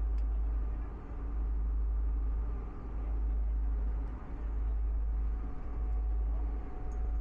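Steady low rumble on board a moving ferry, from the vessel's engine and wind on the microphone, swelling and easing about every second and a half.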